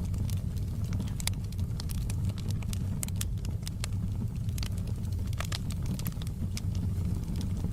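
Wood fire crackling, with scattered sharp pops and snaps over a steady low rumble of the flames.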